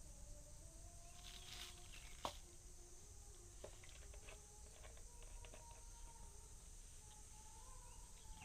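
Faint outdoor nature ambience: a steady high insect drone, with a few soft ticks and one sharper click a little over two seconds in.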